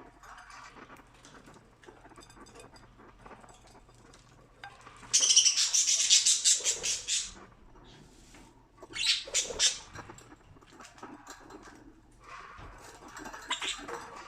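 Pet budgies chattering in three bursts of rapid high chirps, the longest about five seconds in and lasting two seconds. Soft scattered ticks of beaks pecking millet come in between.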